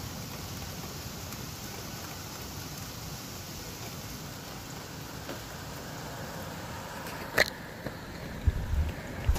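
Steady hiss of rain falling in a thunderstorm, with a few sharp clicks and low knocks near the end.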